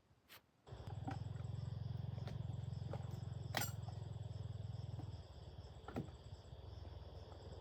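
A handheld power tool starts up and runs steadily for about seven seconds, with a low hum and a high whine, a few sharp clicks, and a drop in level about five seconds in before it cuts off suddenly.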